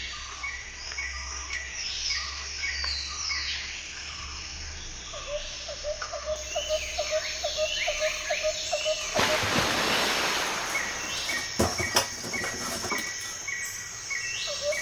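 Birds chirping and calling in short repeated phrases, with a quick run of chirps in the middle. About nine seconds in, a steady hiss of noise joins them, with a couple of sharp clicks.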